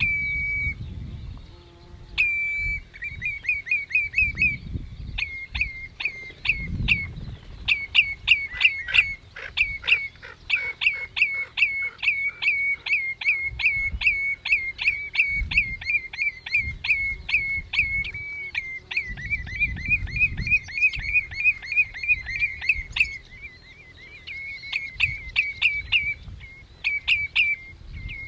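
Common redshank calling: after one held piping note, it gives long runs of short, sharp, piping notes, about two or three a second, with a brief lull near the end.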